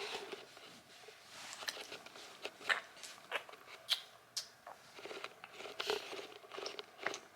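Faint, irregular little clicks and smacks of a baby sucking on a feeding bottle.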